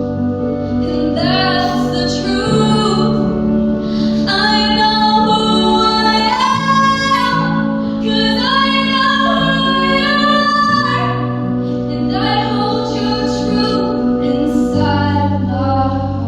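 A female vocalist singing a slow song solo, with long held notes over steady instrumental accompaniment whose chords change every few seconds.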